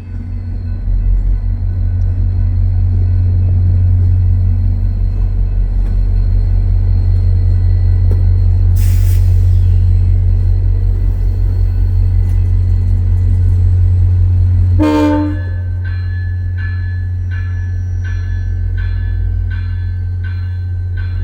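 Diesel locomotive of a VIA Rail passenger train running at close range with a heavy low rumble and a short hiss of air. About two-thirds of the way through, a brief horn toot, then the locomotive bell ringing steadily, a little under twice a second, as the engine note drops.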